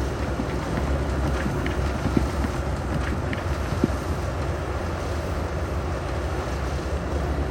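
Heavy diesel earthmoving machinery running steadily with a deep rumble, with two sharp knocks about two and four seconds in.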